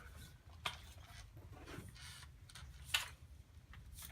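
Soft rustling of a stretch-fabric print being pulled and smoothed over a tubular display frame, with two sharp clicks, the louder one about three seconds in.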